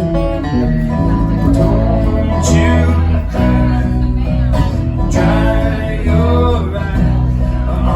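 Live band music: guitar over a steady bass, with a voice singing a melody line.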